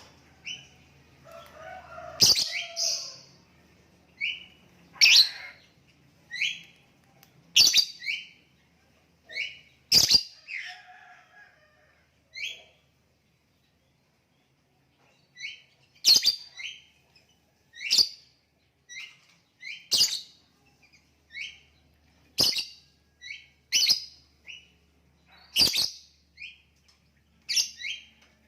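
Lovebird calling in short, sharp, high chirps, one every one to two seconds, with a pause of a few seconds around the middle.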